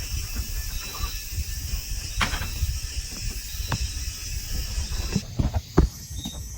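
Irregular low knocks and handling thumps with a few sharper clicks, over a steady high drone of forest insects that stops abruptly about five seconds in. Short high chirps follow near the end.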